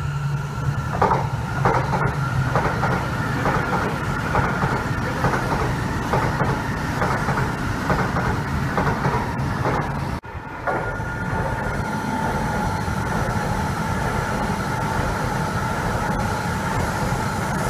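A Shinkansen E2 series train passing close by, its wheels clicking rhythmically over rail joints about twice a second. About ten seconds in, the sound breaks off and an E5 series Shinkansen is heard passing with steady running noise and a high whine.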